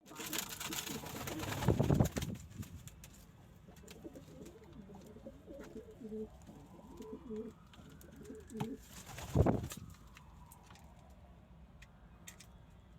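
Domestic pigeons cooing in low repeated calls, with two loud rushing noises, one over the first two seconds and a short one about nine seconds in.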